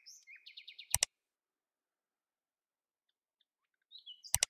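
A small bird chirping: a run of quick high chirps ending in a fast trill, cut off by a sharp click about a second in. After a stretch of dead silence the chirping returns near the end with two more sharp clicks.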